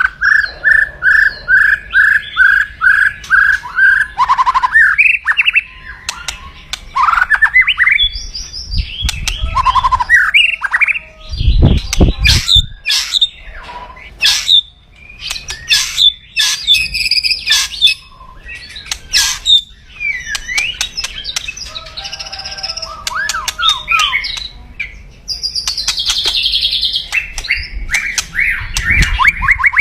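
White-rumped shama (murai batu) giving its loud kretekan: harsh chatters, rattles and whistled sweeps, opening with a quick run of even repeated notes and ending in a fast stutter. A brief low rumble sounds just before the middle.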